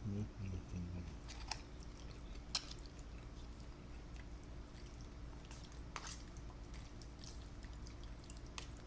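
Close-miked chewing and mouth noises of a person eating, with scattered sharp wet clicks and smacks and a short low sound in the first second, over a faint steady hum.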